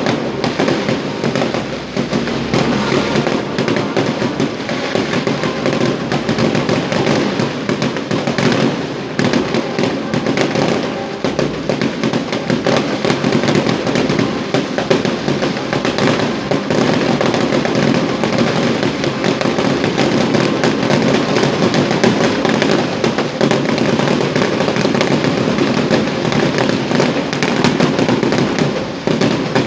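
Fireworks display: a dense, continuous barrage of bangs and crackling, with no pauses.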